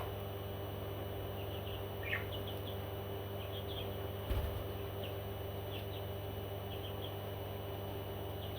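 Small parrot chirping softly, with short high chirps scattered every second or so over a steady low hum, and one dull knock about four seconds in.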